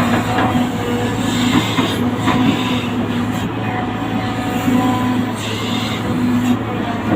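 Loud, steady mechanical running noise over a constant low hum, with no speech.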